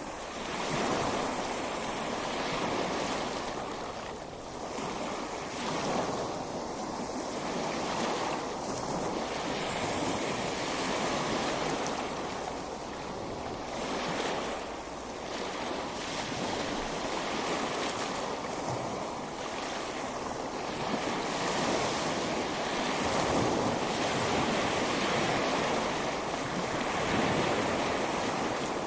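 Ocean waves breaking and washing up on a beach, the surf swelling and easing every few seconds.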